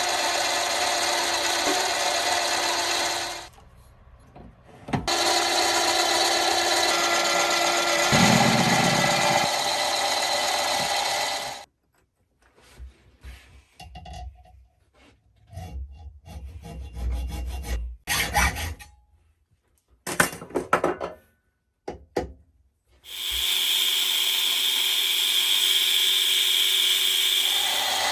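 Metalworking on a mini lathe and shop tools, cutting aluminium and mild steel in several short clips. Steady machine cutting noise that stops and starts. In the middle there are scattered knocks and scrapes, and steady cutting resumes near the end.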